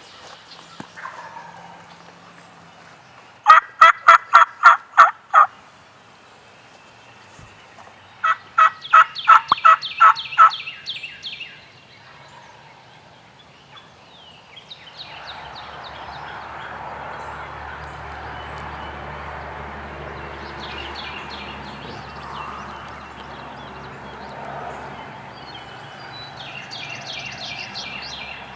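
Hunter's turkey call yelping: two loud runs of evenly spaced yelps, about eight notes and then about ten, a few seconds apart. Fainter short runs of yelps follow over a steady hiss.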